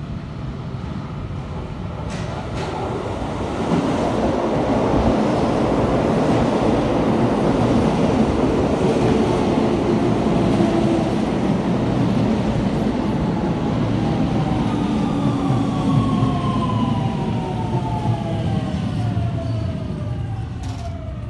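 Keio electric commuter train running into the station along the platform, with a steady heavy rumble of wheels on rails. Near the end a whine from the motors falls steadily in pitch as the train slows.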